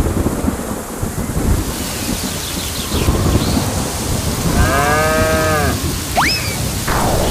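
Steady rain-like rushing noise with low rumbling, a cow-like mooing call about five seconds in, and a short sharp rising whistle about a second later.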